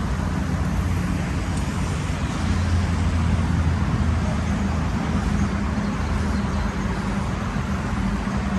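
Steady road traffic, with the low engine hum of passing cars swelling a little for a couple of seconds in the middle.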